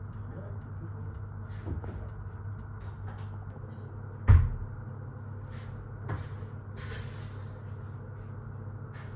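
Kitchen handling noises over a steady low hum: scattered light clicks and clatters, with one loud sharp knock about four seconds in and a smaller one about two seconds later.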